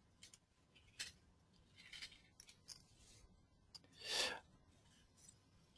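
Near silence with a few faint clicks and a short rustle about four seconds in, picked up by a desk microphone.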